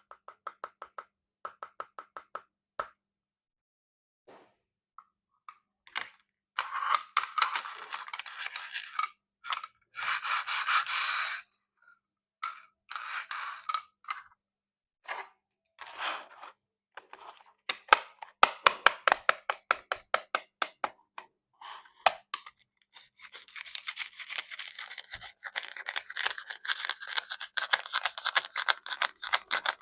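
Plastic toy fruit being cut: runs of fast clicks and several scraping rasps lasting a second or two. There is a near-quiet gap early on, and a dense stretch of clicking and scraping near the end.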